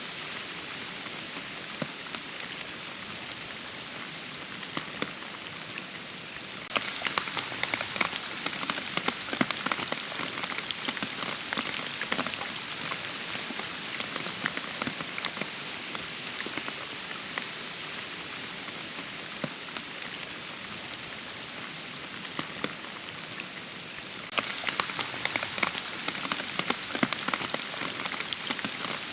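Steady rain falling in a forest, with many separate drop hits close by. The rain gets suddenly louder and heavier about a quarter of the way in, eases off again midway, and grows heavier once more near the end.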